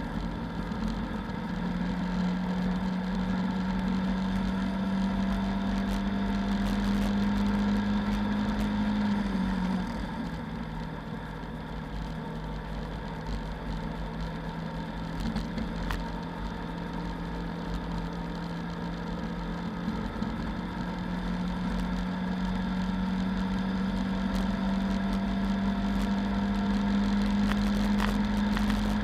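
Lada 2109's four-cylinder engine heard from inside the cabin at racing revs, with steady road and wind noise. Its pitch drops a little about a third of the way in, holds there, then climbs steadily through the last third as the car accelerates.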